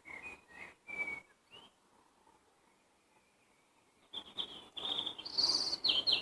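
Songbird singing: a few short whistled chirps, then a pause of about two seconds, then a faster, louder run of higher notes near the end.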